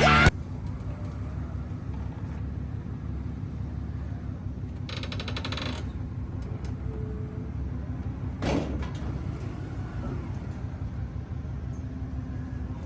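Steady low engine rumble from a running vehicle, with a short burst of rapid metallic rattling about five seconds in and a single metallic clank a few seconds later.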